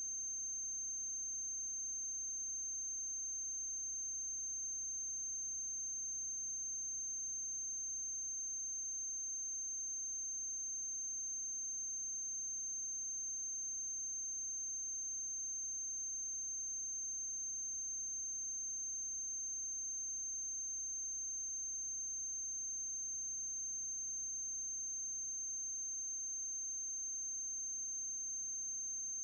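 A steady high-pitched whine that holds one pitch throughout, over a faint low electrical hum and light hiss: transfer noise on the soundtrack of a silent film, with no other sound.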